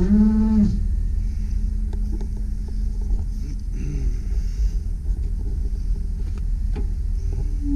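2001 GMC Sierra 3500 HD bucket truck idling with a steady low rumble. A whine rises and stops within the first second, and scattered light clicks follow.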